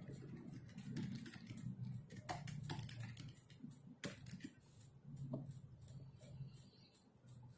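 Typing on a computer keyboard: faint, irregular keystroke clicks, some in quick runs and some alone.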